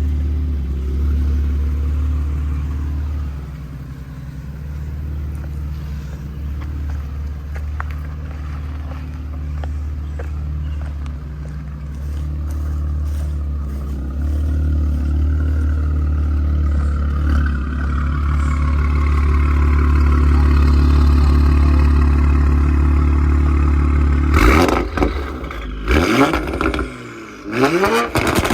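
2019 Audi RS5 Sportback's twin-turbo V6 with catless downpipes, running at a steady low rumble, then revved sharply a few times near the end, the pitch climbing and dropping with each blip.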